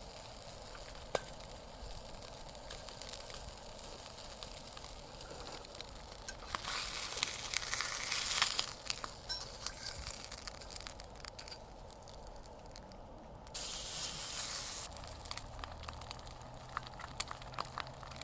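Cooking over a campfire: steady crackling with scattered sharp pops, and two louder stretches of sizzling hiss, one about a third of the way in and a shorter one past the middle.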